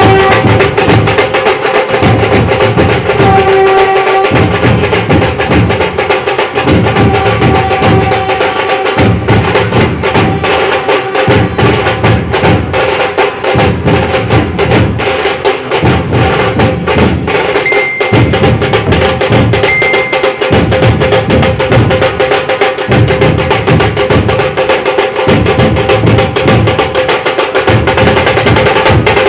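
Loud drum-led music: rapid, steady drumming and percussion over a held tone.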